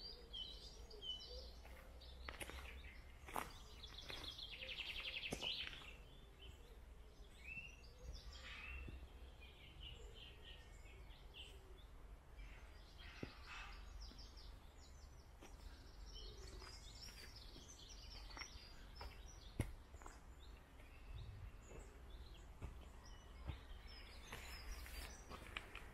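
Small birds singing and calling, with short chirps throughout and a rapid trill about four seconds in. A few sharp clicks stand out, and a steady low rumble runs underneath.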